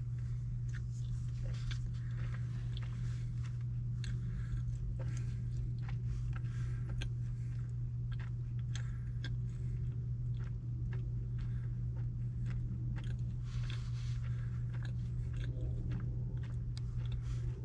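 Close-up chewing of a mouthful of chow mein and orange chicken, with many small sharp clicks of a plastic fork against a plastic takeout bowl, over a steady low hum.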